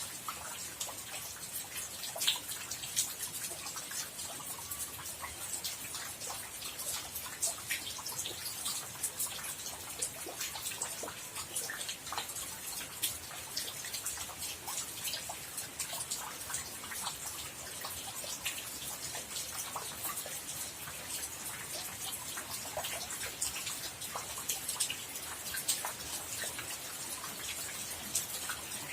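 Steady rain falling, with many separate drops hitting and dripping close by in an irregular, constant stream of sharp ticks.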